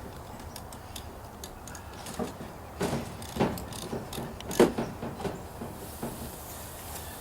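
A few sharp knocks and clicks, the loudest about three and a half and four and a half seconds in, over a faint steady background.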